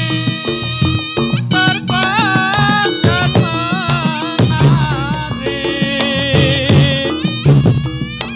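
Traditional Javanese jathilan dance accompaniment: drums beating under a wavering melody line.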